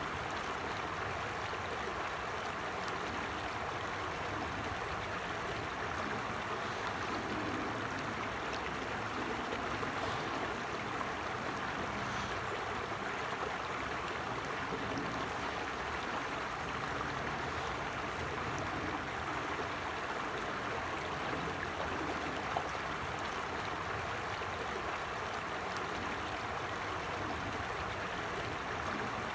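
Forest stream running steadily over rocks, a continuous babble of flowing water.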